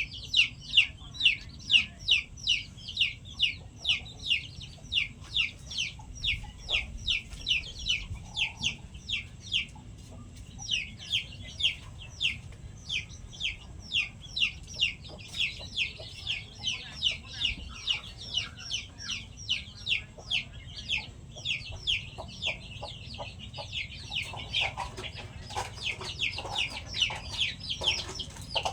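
A chick peeping over and over, short high falling peeps about two to three a second, with low clucking from an adult chicken joining near the end.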